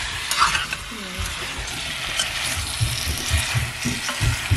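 Potatoes in curry frying in oil in a cast iron pot: a steady sizzle, with a run of dull low thumps from about a second and a half in.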